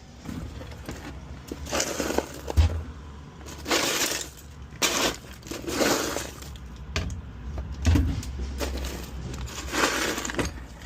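Items being rummaged through and handled: a series of separate rustling, crackling and clattering noises, with two short low thuds.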